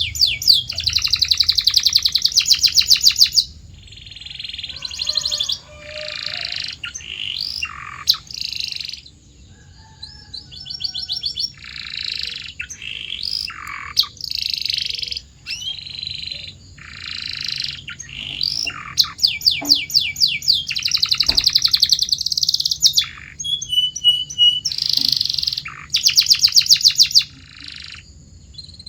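Domestic canary singing: a run of phrases, each a fast trill or roll of repeated high notes lasting a second or two, with short pauses between them.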